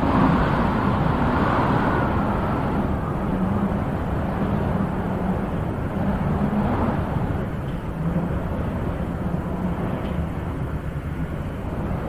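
Wind blowing in gusts: a steady, low rushing noise that swells at the start and again about halfway through.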